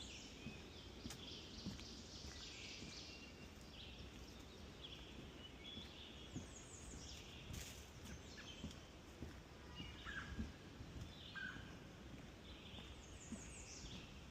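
Several birds singing and calling, faint, with falling trills now and then. Beneath them, soft footsteps knock on a wooden boardwalk.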